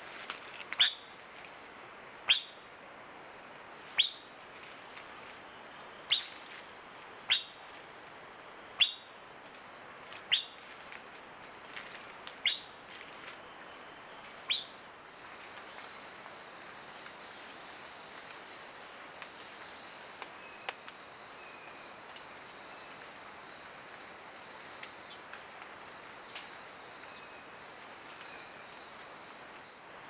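A bird repeats a sharp whistled call that falls in pitch, nine times, about every one and a half to two seconds, over a steady hiss. About halfway through the calls stop, leaving a steady high hum with a few faint chirps.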